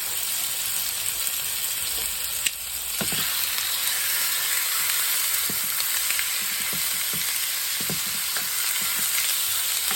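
Seasoned chicken pieces frying in hot olive oil in a pan, a steady sizzle, with a few light clicks scattered through it.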